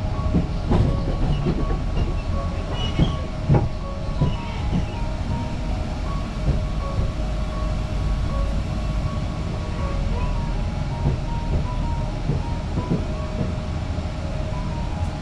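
A regional train running, heard from inside the carriage: a steady low rumble with a faint steady hum, and the wheels clacking over the rails, with a few sharp knocks in the first few seconds.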